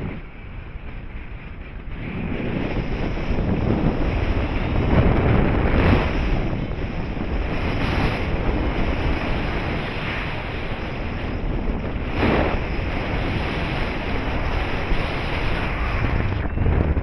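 Airflow rushing over the microphone during a paraglider flight: a steady noise that swells about two seconds in and gusts several times.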